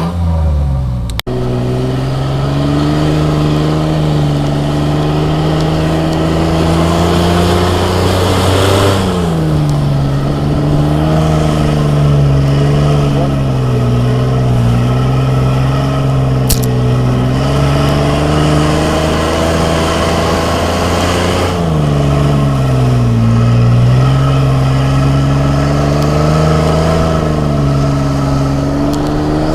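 Mitsubishi Pajero's 3.0-litre V6 engine pulling under load while driving in snow. The engine note climbs slowly, then drops sharply twice: about nine seconds in and again past the twenty-second mark.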